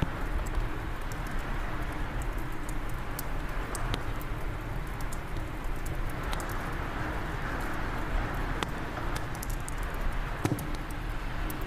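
Wood fire crackling in a fireplace, with irregular sharp pops and snaps over a steady rush of wind and a low rumble.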